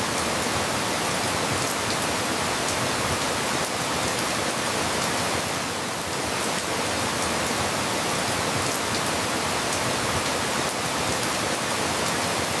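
Steady rain, a dense even hiss of falling drops with faint scattered drip ticks.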